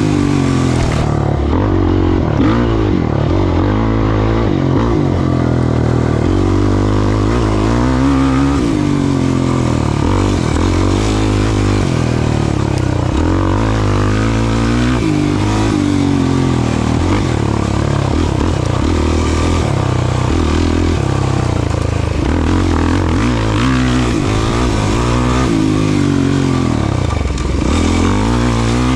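Off-road racing engine running hard under constant throttle changes. Its pitch keeps climbing and dropping as it revs up and backs off.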